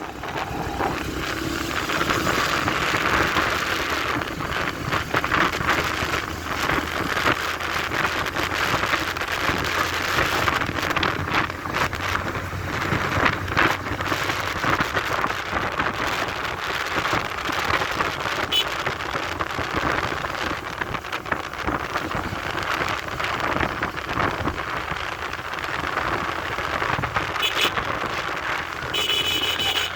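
Wind buffeting the microphone and road noise from a motorcycle on the move, with the engine running low underneath. A brief high-pitched tone sounds near the end.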